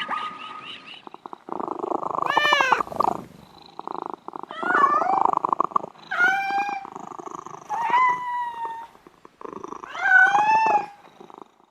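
A domestic cat meowing about five times, each call rising then falling in pitch, over a rapid purr.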